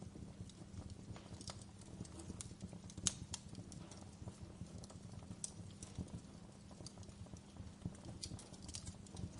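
Fireplace crackling: irregular pops and snaps, with one louder snap about three seconds in, over a low steady rumble.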